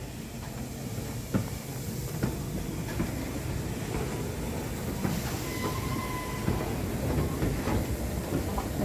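Railway train running on the track: a steady rumble with irregular clicks and clacks of wheels over rail joints, and a brief high squeal about halfway through.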